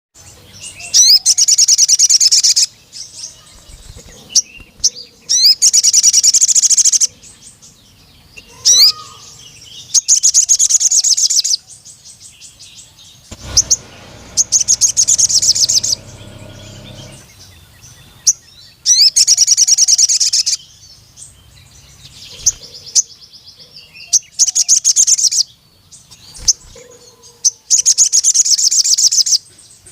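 Male sogon sunbird singing: loud, fast, high trills about one and a half to two seconds long, repeated every four to five seconds, with short high chirps between. It is the long-trilling call that challenges a rival male.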